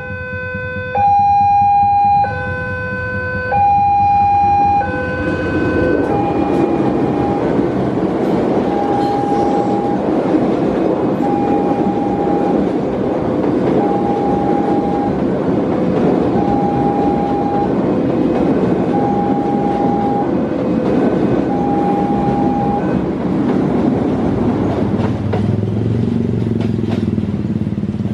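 Railway level-crossing warning and a passing train. Loud alternating two-note tones sound for about five seconds, then a single tone repeats about every 1.7 s over the steady rumble of the train going through the crossing. The tones stop about 23 seconds in.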